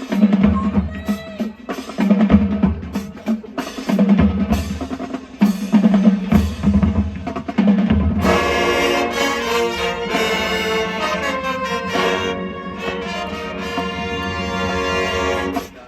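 Marching band playing: the drumline with deep bass-drum hits every second or two and sharp snare and rim clicks, then the brass section comes in about halfway with sustained chords.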